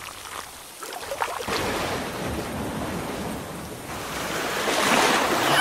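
Rain falling: a steady hiss that swells near the end.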